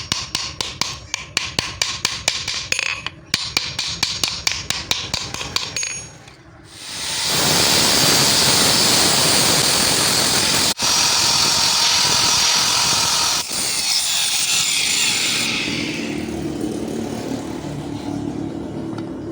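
Rapid hammer blows on steel being forged, about four a second with a brief pause, for the first six seconds. After a short gap a power tool starts grinding the metal with a loud, steady noise that thins out and fades over the last few seconds.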